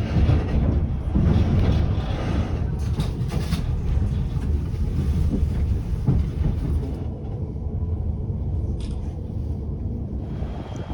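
White Pass railway passenger coach rolling along the track: a steady low rumble of wheels on rails. About seven seconds in, the higher hiss falls away and the low rumble carries on.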